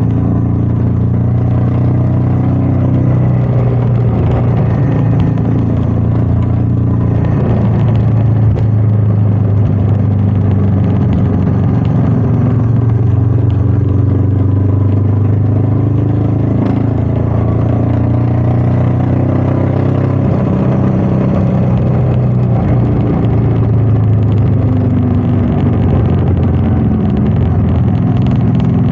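Royal Enfield Meteor 350's single-cylinder engine running steadily under way, its pitch shifting a little with the throttle, over a steady rush of wind.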